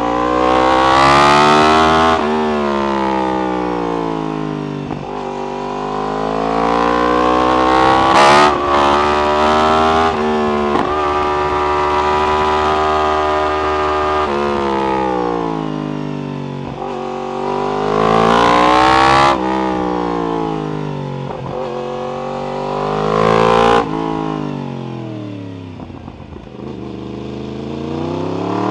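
Yamaha R1's inline-four engine through an Akrapovic exhaust, repeatedly revving up and dropping away as the bike accelerates, shifts and slows. There is a sharp crack about eight seconds in, and a steady stretch at high revs midway.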